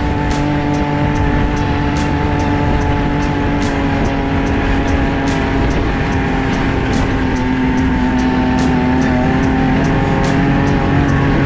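Side-by-side UTV engine running at a steady, even drone while driving on a trail, with only a slight rise and fall in pitch.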